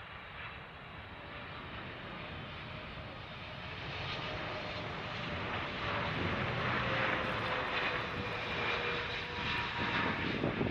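Jet airliner passing, its engine noise growing steadily louder, with a faint whine that slowly falls in pitch.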